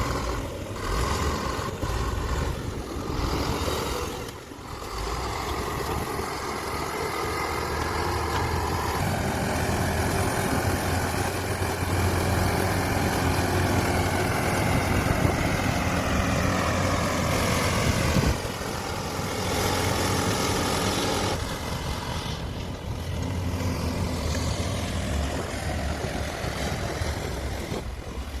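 Heavy diesel engines of a large CAT excavator and dump trucks working at a mine. The engine note strengthens under load from about nine seconds in, holds, then eases back about eighteen seconds in, with a short dip about four seconds in.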